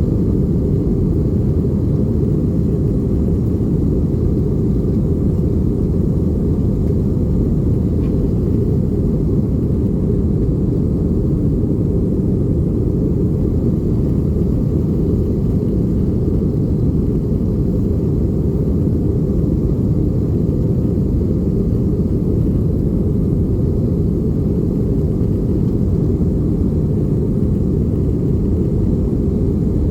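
Steady low roar of an Airbus A320 heard from inside the cabin in flight: engine and airflow noise, unchanging throughout.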